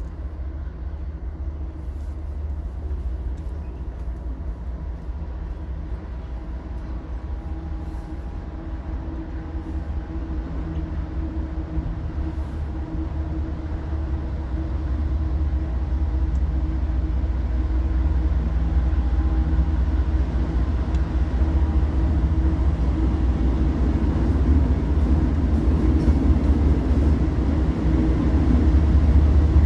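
Diesel locomotives of a CSX freight train running with a steady low engine drone, growing louder as the train approaches.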